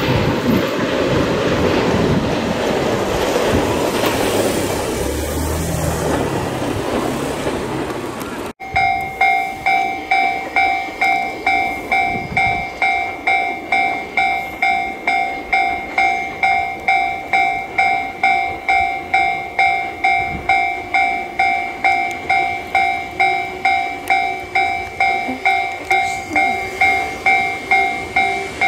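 Container wagons of a freight train rolling past on a curve, a steady rattling rumble. After a sudden break about eight seconds in, a railway level-crossing alarm rings a two-tone electronic ding about twice a second while a JR 215 series electric train passes more quietly.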